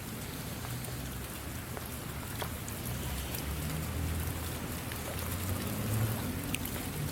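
Steady rain falling, an even hiss with scattered individual drops ticking, and a low rumble that swells in the middle.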